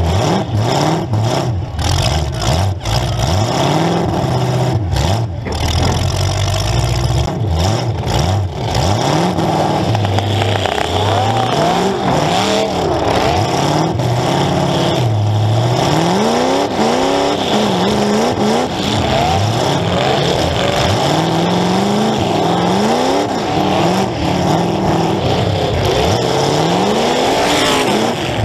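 Demolition derby car's engine, heard from on board, revving up and falling back over and over as the car drives, reverses and accelerates again.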